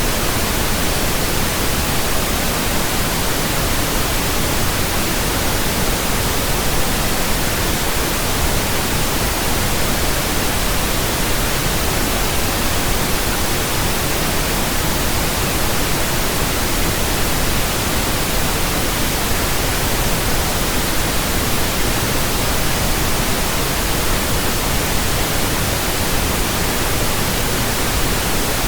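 Pink noise from a pink noise generator: a steady, even hiss across the whole range, played as a burn-in track for running in new speakers and earphones.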